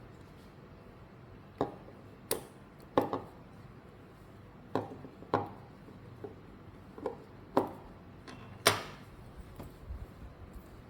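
A string of about nine sharp clicks and knocks at uneven intervals, the loudest near the end: small crafting tools and materials being handled and set down on a work table.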